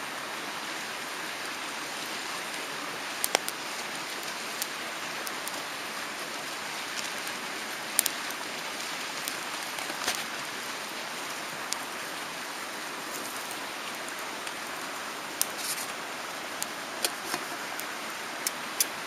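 Mountain stream rushing steadily, with a dozen or so sharp pops scattered irregularly through it, the loudest about three, eight and ten seconds in.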